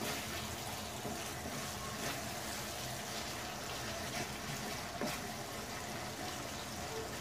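Prawns and onion rings sizzling steadily in a pan with tomato and soy sauce, with a few faint clicks.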